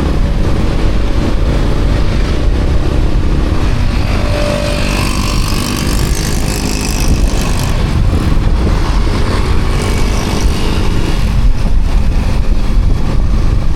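Yamaha Sniper 155R motorcycle under way, its single-cylinder engine and road noise nearly buried under heavy wind rumble on the camera's microphone. Brief fainter tones from other traffic rise out of it about four and seven seconds in.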